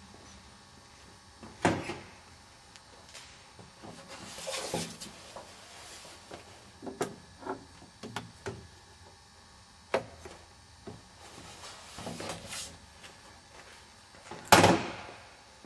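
Scattered knocks and clunks with a few brief rustling swells, the loudest a sharp knock near the end; no engine running.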